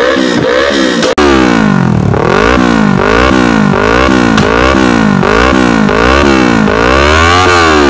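Yamaha R3's parallel-twin engine revved repeatedly through an aftermarket slip-on exhaust, picked up close at the muffler: the revs climb and fall about twice a second in a steady series of throttle blips. A short break about a second in, after which the blips slow slightly.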